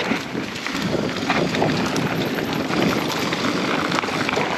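Mountain bike riding along a dirt trail: a steady rush of tyre and wind noise on the microphone, with small clicks and rattles.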